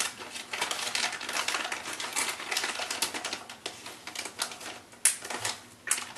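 Crinkling and crackling of plastic bait packaging being handled, with a sharper click about five seconds in.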